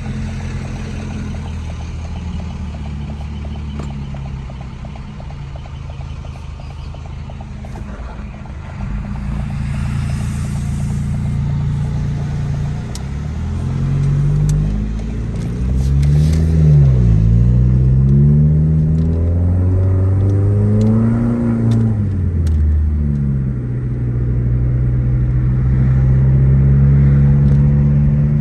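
Car engine running while driving, its pitch climbing and dropping twice about halfway through as it accelerates through the gears, then settling into a steady cruise.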